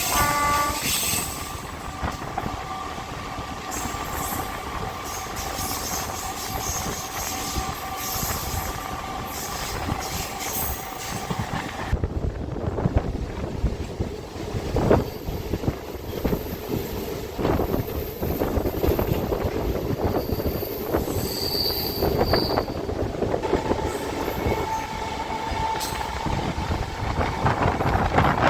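MEMU electric multiple-unit train running along the track, with long steady whining tones over the running noise and scattered knocks from the wheels.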